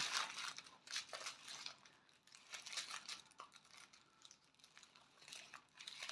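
Small plastic baggies of diamond-painting drills crinkling and rustling as they are handled, in short, scattered crackles.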